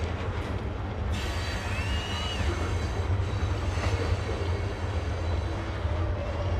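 Freight train rolling past with a steady low rumble of wheels and cars, and a brief faint wheel squeal about two seconds in.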